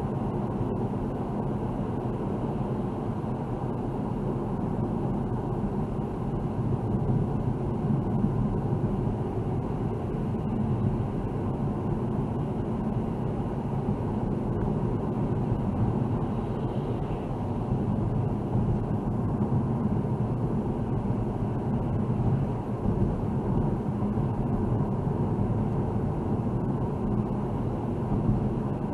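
Steady engine and tyre noise of a car being driven, an even rumble that rises and falls only slightly.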